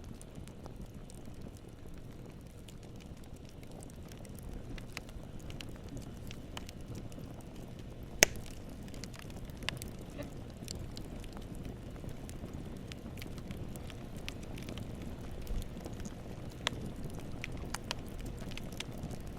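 Campfire burning: a steady low rumble of flames with irregular crackles and pops of burning wood, one sharp loud pop about eight seconds in.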